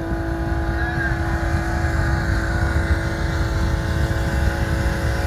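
Boat engine running steadily: a constant drone with a low rumble, holding the same pitch throughout.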